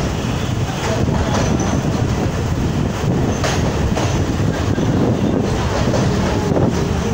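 Train running over a steel truss bridge, heard from aboard: a steady rumble of wheels on rails with scattered clicks.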